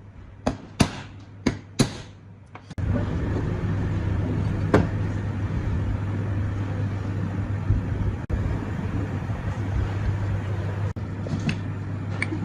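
About five sharp knocks in the first three seconds, then a motor starts suddenly and runs steadily with a low hum, broken twice by brief dropouts.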